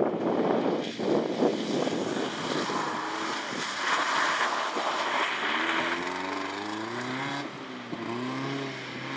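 Audi 80 rally car's engine revving hard as the car slides through a muddy gravel corner. It is a noisy rumble at first, then from about halfway the engine pitch rises and falls several times.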